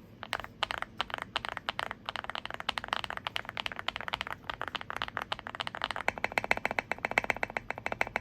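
Typing on a Zoom65 mechanical keyboard with KTT Haluhalo switches and OSA-profile keycaps: a steady run of keystroke clacks with a few brief pauses early on, turning into a faster, denser run about six seconds in.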